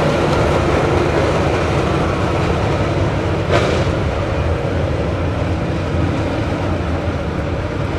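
Loud steady vehicle rumble, with a brief sharp clatter about three and a half seconds in.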